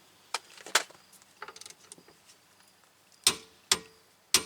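Metallic tool clicks and knocks as a wrench tightens a rear axle nut, with the hub held by something jammed in the brake rotor against the caliper: a few scattered clicks, two sharp knocks a little over three seconds in, then a quick run of ringing clicks near the end.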